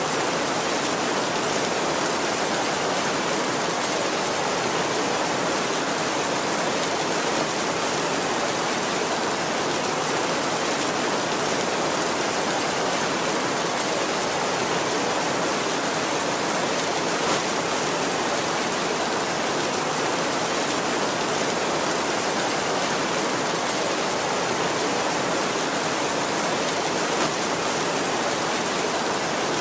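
Heavy rain falling steadily on a tin roof: an even, unbroken hiss of rain without thunder.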